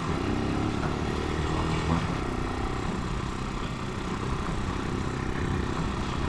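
Italika 250 motorcycle engine running while riding, its pitch shifting a little with the throttle.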